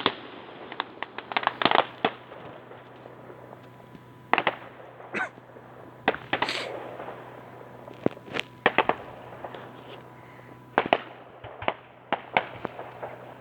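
Fireworks exploding in a display: a string of sharp bangs and cracks at uneven intervals, some in quick clusters, with a brief hissing burst about six and a half seconds in.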